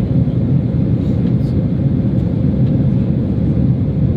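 Steady low rumble of a Boeing 767-300 in flight: engine and airflow noise heard inside the economy cabin.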